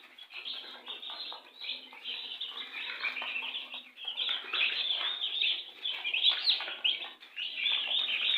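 A brood of day-old chicks peeping: many high calls overlapping without a break, growing louder about halfway through.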